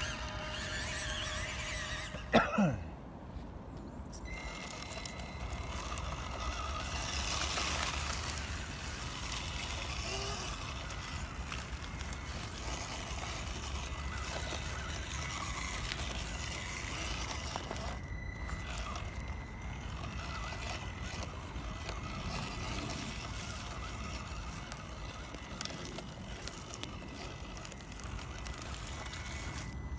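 Background music ends about two seconds in with a quick falling sweep. It gives way to a small electric RC car running over rough ground: a steady thin motor-and-gear whine over the rumble of the chassis and tyres.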